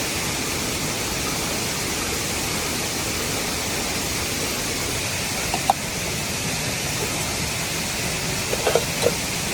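Steady, even rushing noise, with a few short clicks about six seconds in and again near the end.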